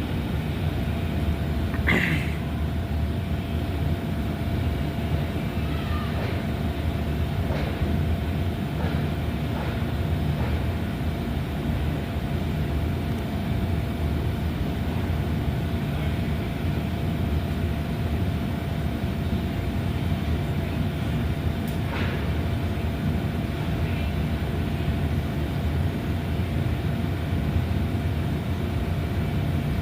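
Light rail train running, a steady low rumble with a constant hum. A sharp click comes about two seconds in and again near twenty-two seconds.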